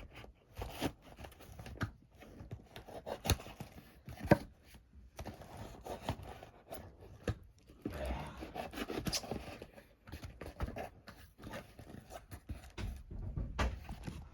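Knife cutting and scraping through a cardboard box, with cardboard tearing and irregular sharp clicks and knocks as the flaps are worked open.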